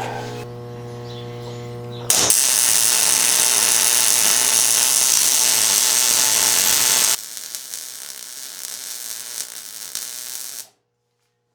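Arc welding a hex keeper onto the end of a steel shaft. A low steady hum comes first, then about two seconds in a loud, steady welding crackle runs for about five seconds. It drops to a fainter hiss that cuts off abruptly near the end.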